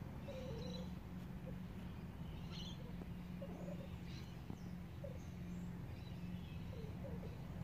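Scattered short chirps of small birds over a steady low hum.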